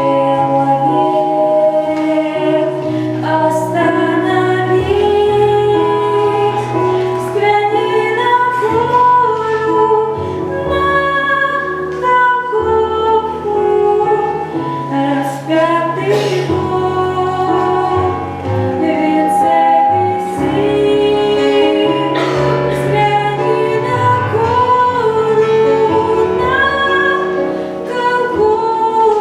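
A woman singing a song with instrumental accompaniment and a steady bass line.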